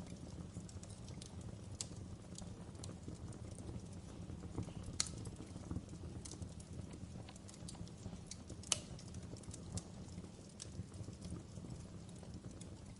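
Wood fire crackling in a fireplace: a low steady rush of burning with scattered sharp pops and snaps, the two loudest about five seconds in and a little under nine seconds in.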